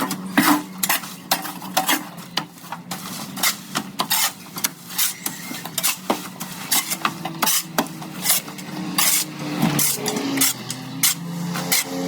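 Irregular clatter, knocks and scraping of hard objects being handled, over a low steady hum.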